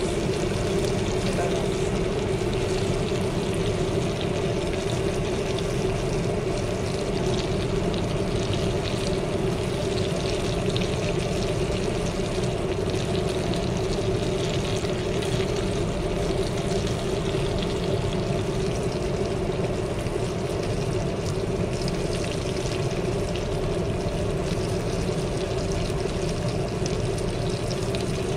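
Chicken skin deep-frying in a pot of hot oil: a steady sizzle and bubbling, over a constant low hum.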